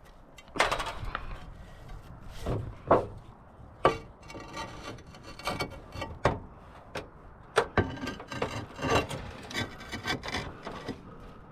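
Tiles being handled and fitted into place: irregular knocks and clacks with scraping and rubbing in between.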